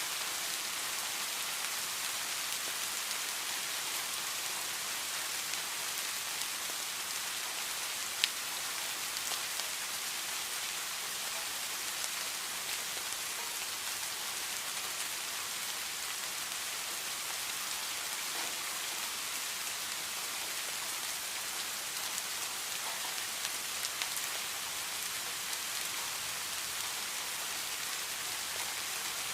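Steady heavy rain falling, with a hiss of drops and scattered sharper drip clicks, one louder a little after eight seconds.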